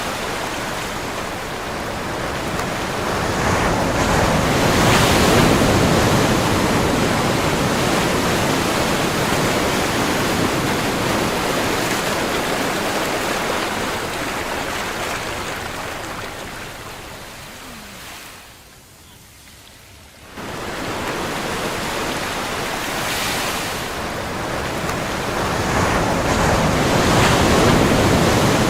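Ocean surf: waves washing and breaking in a steady rushing hiss that swells with each surge, strongest about five seconds in and near the end. About two-thirds of the way through it sinks to a brief lull, then comes back suddenly.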